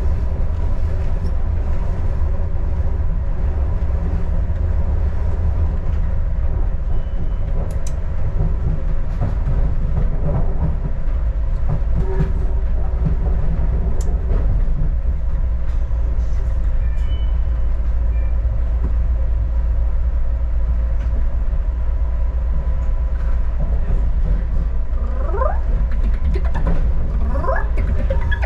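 Adelaide Metro diesel railcar running steadily along the track, heard on board as a continuous low rumble with a faint steady hum. Near the end, a few short rising whistling tones come through over the rumble.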